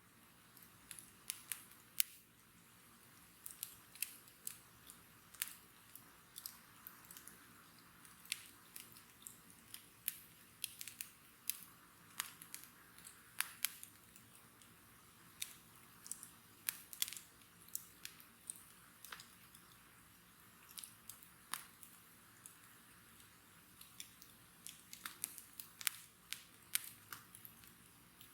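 Wood bonfire crackling: irregular sharp pops and snaps, sometimes several in quick succession, over a faint steady hiss.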